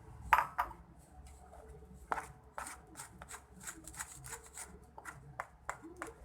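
Irregular clicks and scrapes of hand kitchen work with utensils, about fifteen in a few seconds, the loudest just after the start.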